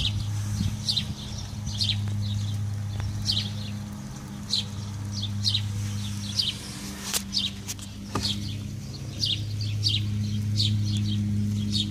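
A bird calling over and over with a short, high, falling chirp, about once or twice a second, over a steady low hum. A couple of sharp clicks come a little past the middle.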